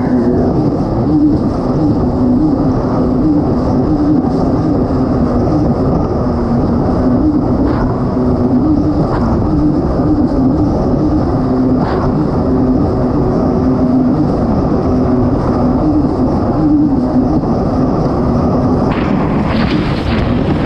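Kawasaki STX-160 personal watercraft's four-cylinder four-stroke engine running hard at racing speed, its note wavering slightly up and down, over rushing wind and water.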